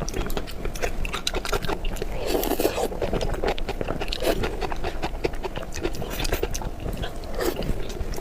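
Close-miked mouth sounds of someone eating soft pig brain in red chili oil: wet chewing and smacking made of many quick, irregular small clicks.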